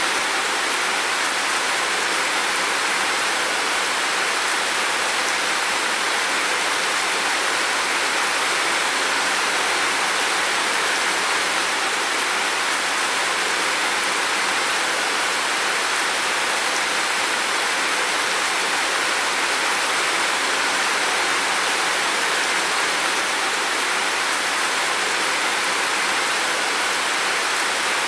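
Heavy rain pouring down in a steady, even hiss, with no single drops, thunder or other events standing out.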